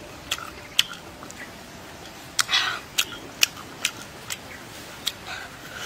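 Close-up mouth sounds of someone chewing juicy santol fruit: a run of short, sharp wet smacks and clicks at uneven intervals, with one longer, noisier smack about two and a half seconds in.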